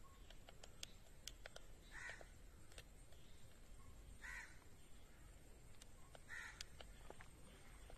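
Faint bird calls: three short calls about two seconds apart, with scattered faint clicks.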